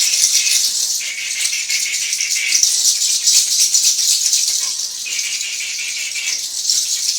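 A handheld rattle shaken rapidly and continuously, giving a dense, dry rattling that swells and eases slightly.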